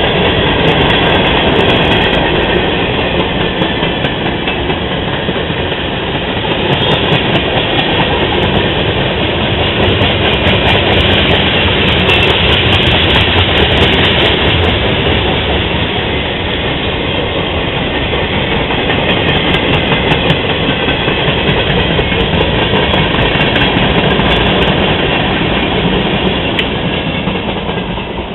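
Freight train cars rolling past close by, loud and steady with scattered clicks from the wheels, fading near the end as the train moves off.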